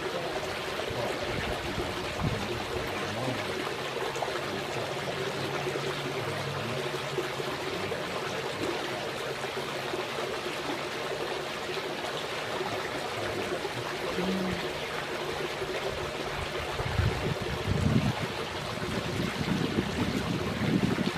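Steady trickling and splashing of running water, even throughout. A few low rumbling bumps come in the last few seconds.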